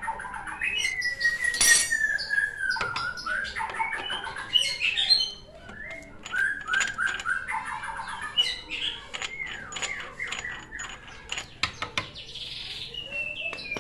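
Songbirds chirping and whistling in quick, varied phrases, including a long, slowly falling whistle in the first few seconds, with a few sharp clicks among them.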